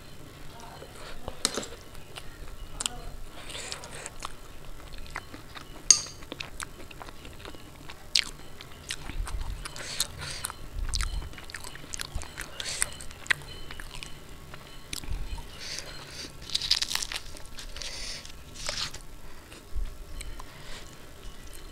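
Close-miked eating: wet chewing and smacking of puri with ghugni pea curry, with sharp clicks of a spoon on steel bowls. Near the end, soft tearing as a puri is ripped by hand.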